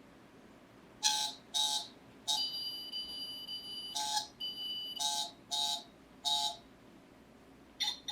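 A small high-pitched mechanical whine switched on and off in short bursts, about seven times, with one longer run in the middle.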